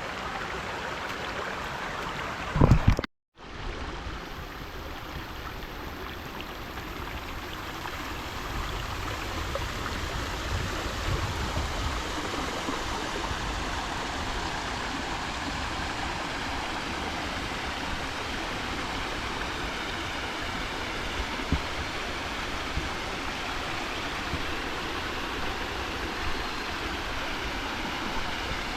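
Shallow creek water babbling and rushing steadily over rocks. About three seconds in there is a loud low thump, and the sound cuts out for a moment before the water noise returns.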